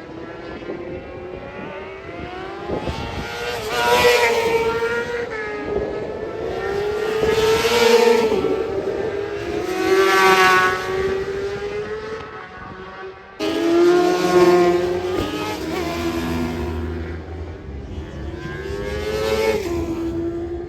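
Racing motorcycles passing one after another on a circuit, their engines revving high and dropping as the riders go through the gears. There are loud passes about 4, 8, 10, 14 and 19 seconds in, and the sound jumps in abruptly a little after 13 seconds.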